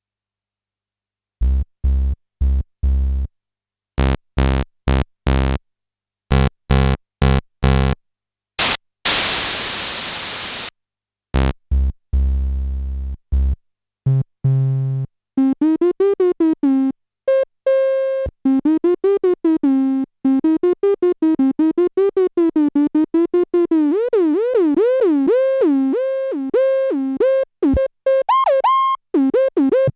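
Behringer K-2 analog monophonic synthesizer, an MS-20 clone, played dry. After a short silence come clipped low bass notes, then a bright burst of noise about nine seconds in. From about halfway a rapid run of notes follows, its pitch swooping up and down in slow waves.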